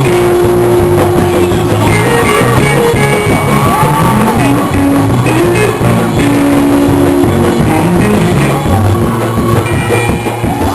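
Loud live church praise-break music from a band, with drums, bass and guitar playing continuously and held notes over the top.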